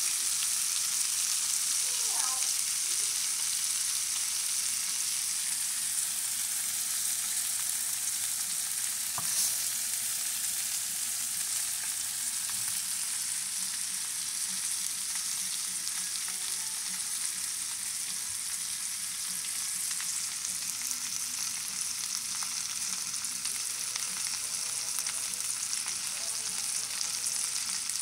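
Sliced bell peppers and onions sizzling in hot oil in a frying pan, a steady high hiss, with a single click about nine seconds in.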